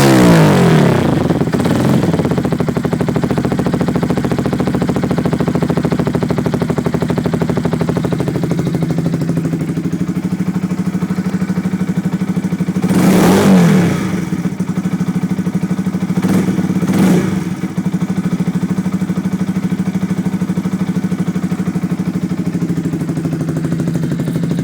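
Yamaha YZF-R125's single-cylinder four-stroke engine idling through a Scorpion carbon exhaust with the dB killer removed. It settles from a rev at the start, is blipped once about halfway through and twice in quick succession shortly after, and drops back to a steady idle each time.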